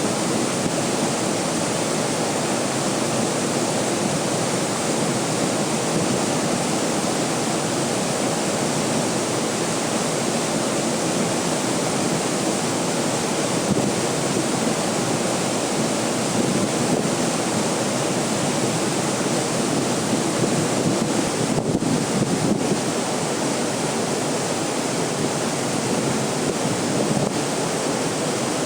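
A waterfall's water falling in a steady, even rush.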